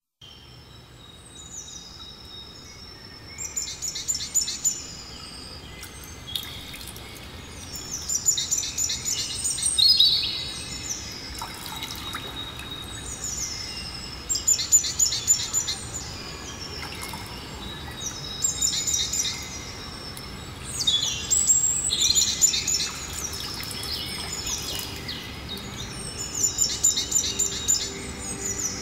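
A songbird singing short phrases of high, fast trills and whistles, repeated every four to six seconds, over a steady low background hiss.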